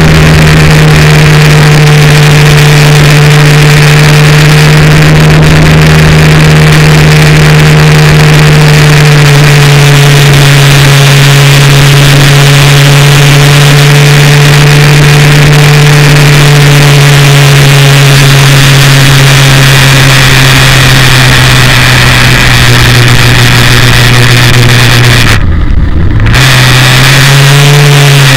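Benelli TRK 502's parallel-twin engine running at a steady cruise under way, over loud wind and road rush. Near the end the revs drop sharply for about a second and then pick up again.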